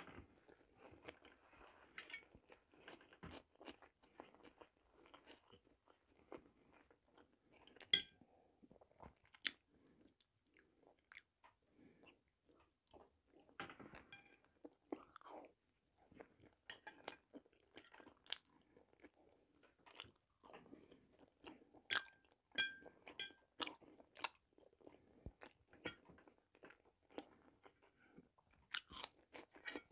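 A person chewing and eating, picked up close by a clip-on microphone, with a few sharp clinks of a fork against a plate, the loudest about eight seconds in and twice around twenty-two seconds in.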